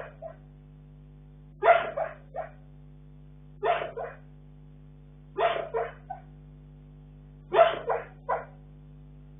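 Bull terrier barking in its sleep: bursts of two or three quick, short barks, repeating about every two seconds.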